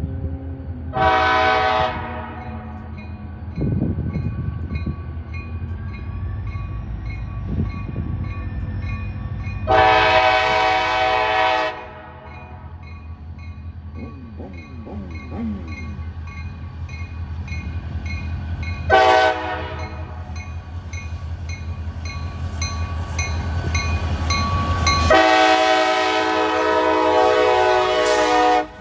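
Diesel locomotive horn sounding four blasts, short, long, short, then a last long one held several seconds, each a chord of several tones, over the steady low rumble of the passing train. The sound cuts off suddenly near the end.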